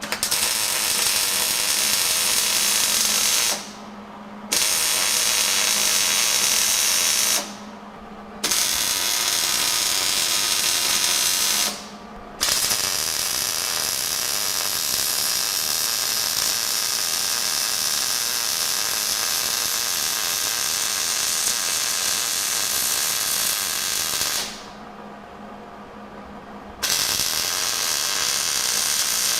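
MIG (wire-feed) welder laying beads on steel axle brackets: a steady frying crackle in five runs, the fourth about twelve seconds long, with short pauses between them.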